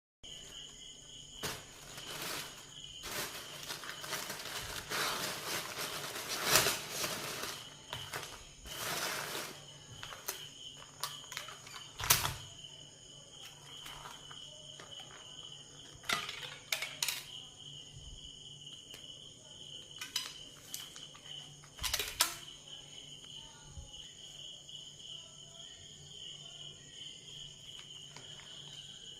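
Food packaging being handled and unwrapped, rustling for the first ten seconds or so, then a few sharp knocks about twelve, sixteen and twenty-two seconds in. Under it all a steady high insect trill, like crickets, keeps on.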